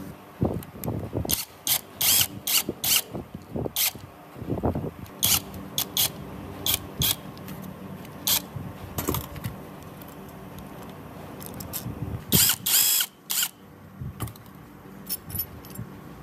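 Hand screwdriver and small metal parts on a chainsaw's carburettor cover: irregular sharp clicks and light taps as screws are undone and a metal bracket is taken off, with a quick run of louder clicks about twelve seconds in.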